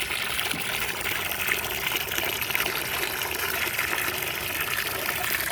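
Fresh water pouring in a steady stream into a shallow bird-bath pan as it is filled.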